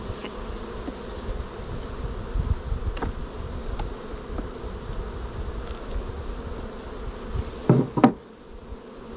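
Honeybees buzzing around an opened hive, a steady hum, with a few light clicks and a louder knock and scrape about eight seconds in.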